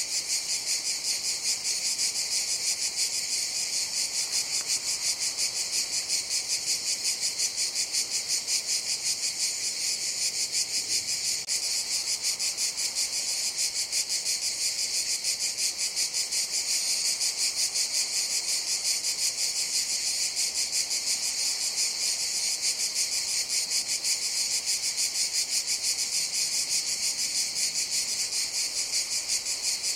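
Cicadas chorusing: a steady, high-pitched buzzing drone that pulses rapidly and evenly.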